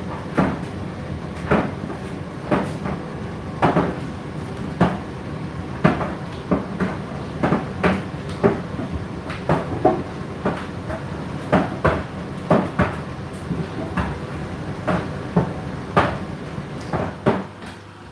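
Laundry tumbling in a turning washer or dryer drum just after the cycle has started: a dull knock about once a second as the load drops, with smaller knocks between, over a steady motor hum. The drum stops turning near the end.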